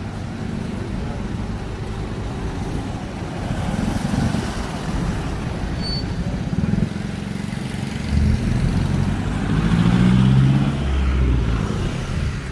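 Road traffic, with a vehicle's engine passing close and growing loudest in the second half before fading.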